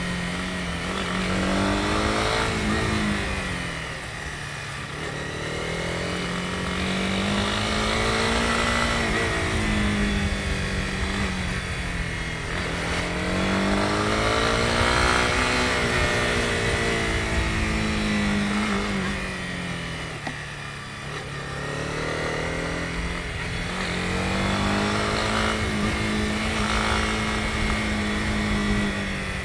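Honda CB250R single-cylinder engine under way on the road, its revs rising and falling several times as the rider works the throttle, over road and wind noise.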